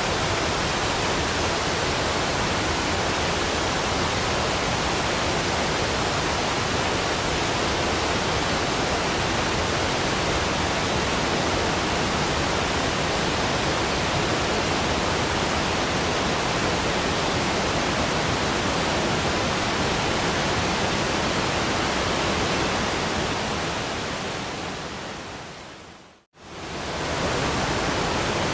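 Rushing waterfall, a steady even roar of falling water. About 23 seconds in it fades out to a moment of silence, then fades quickly back up.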